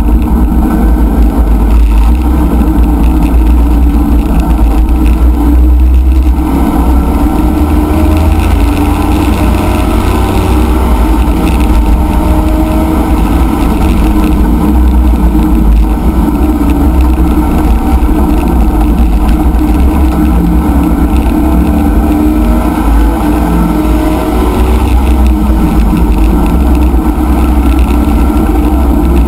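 C5 Corvette race car's V8 engine, heard from inside the cabin, pulling hard and revving up through the gears, then slowing for a corner toward the end, with loud road and wind noise.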